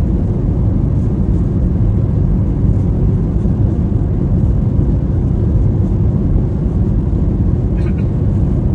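Steady low rumble of aircraft cabin noise in flight, the drone of engines and airflow heard from inside the cabin.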